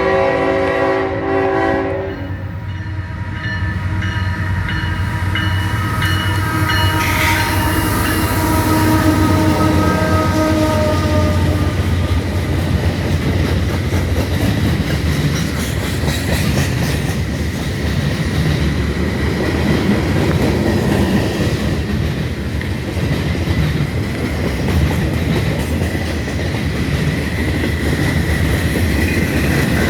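Freight locomotive horn sounding a chord that cuts off about two seconds in. The train's diesel engines and cars then rumble past at low speed, the wheels clacking over the rail joints.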